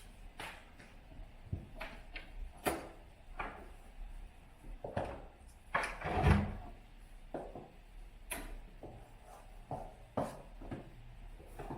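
Irregular light knocks and clicks of household objects being handled, with a duller, louder thump about six seconds in.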